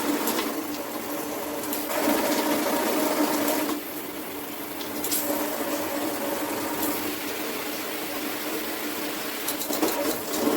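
Water spraying from a Cobbe 8-function handheld shower head: a steady rush of water with a steady hum under it. The rush drops a little about four seconds in.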